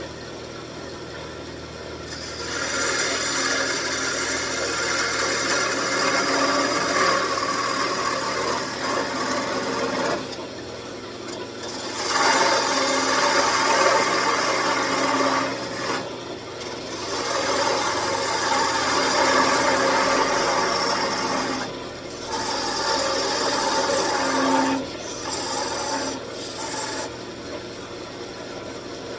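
Parting tool cutting into a spinning wooden table leg on a wood lathe, a scraping cutting noise in several spells of a few seconds each with short breaks between them, over the lathe's steady hum.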